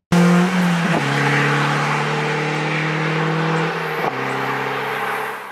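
Tuned 1972 BMW 2002 tii's four-cylinder engine with twin Weber 45 carburettors running hard on track. Its pitch steps down about a second in and again about four seconds in, and it fades out near the end.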